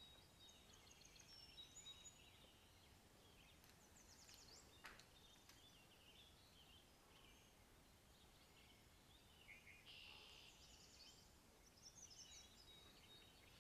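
Near silence with faint birdsong: scattered high chirps and trills, busiest about four and ten seconds in.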